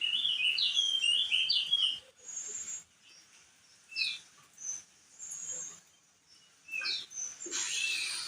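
Crested heleia (opior jambul) singing: a quick run of jumpy, chirping notes for about two seconds, then short scattered calls.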